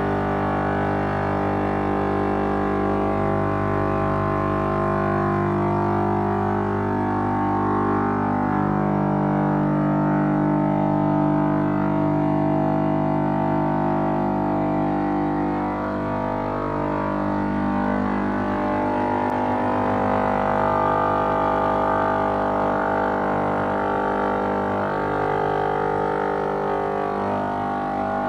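Granite cutting machine running: a steady drone of motor and saw tones that shifts in pitch every few seconds as the load changes.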